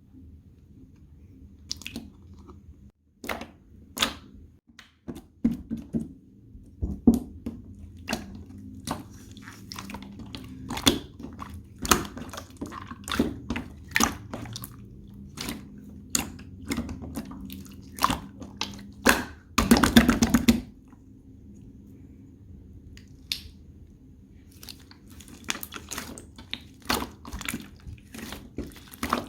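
Hands squeezing and poking soft slime clay, giving irregular sharp wet clicks and small pops, with a denser stretch of squishing about two-thirds of the way through, over a low steady hum.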